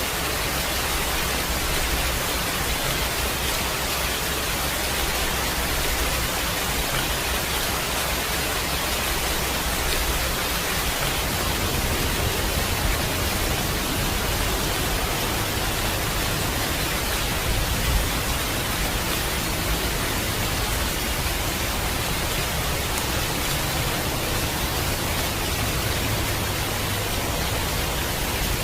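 Heavy rain falling steadily, a dense even hiss with no distinct drops.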